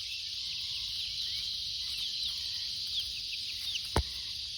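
Young chicks peeping: a steady run of short, high, falling peeps, two to three a second, over a steady high hiss. A single sharp click about four seconds in.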